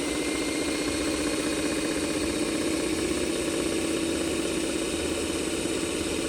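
Radio-controlled construction vehicle running: a steady motor drone with a fast, even pulse and no change in speed.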